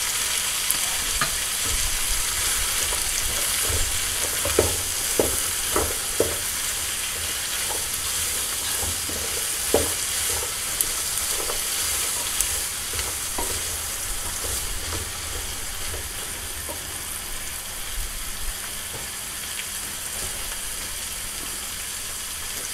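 Turkey pieces, fresh beans and onion sizzling steadily in oil in a granite-coated pot, with a spoon knocking and scraping against the pot now and then as tomato paste is stirred in. The knocks are more frequent in the first half and the sizzle softens a little near the end.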